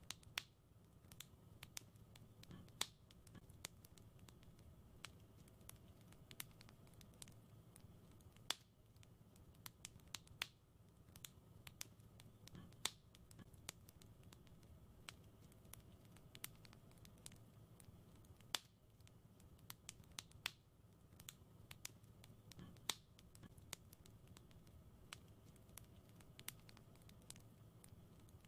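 Wood fire in a fireplace crackling: irregular sharp pops and snaps, a few louder than the rest, over a soft low rumble of the flames.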